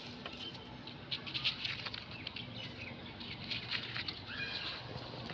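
Crackly rustling in irregular clusters, of leaves and litter such as old plastic being handled and pulled out of the vegetation.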